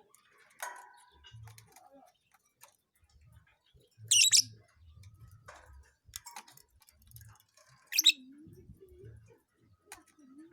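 A pet lovebird giving two short, loud, shrill chirps, about four seconds apart, with faint small knocks and clicks between them.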